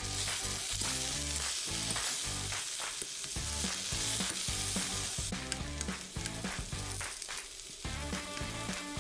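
Tacos frying in oil in a frying pan: a steady sizzle, strongest for the first five seconds or so, with background music underneath.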